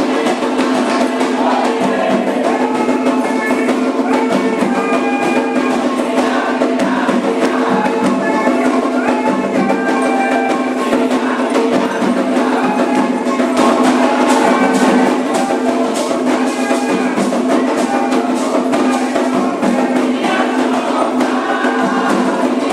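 Candomblé ritual music: hand drums and a struck time-keeping percussion instrument playing a steady, continuous rhythm under group singing.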